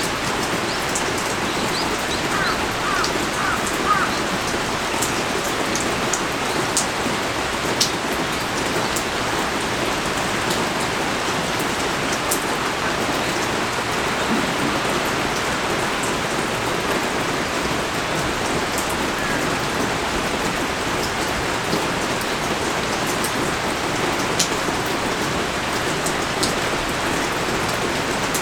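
Heavy rain pouring steadily, an even hiss with sharp drop ticks scattered through it.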